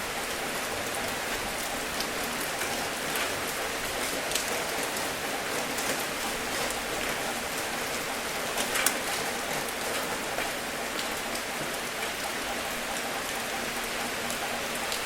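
Steady rain falling, with individual drops ticking through it and one louder drop about nine seconds in.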